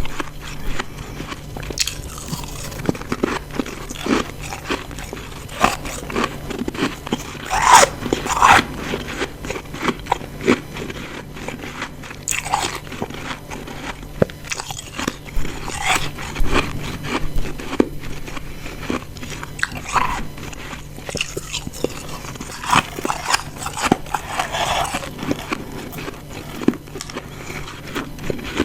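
Close-up crunching of ice chunks being bitten and chewed, a run of irregular crisp crunches and grinding chews. The two loudest bites come together about eight seconds in.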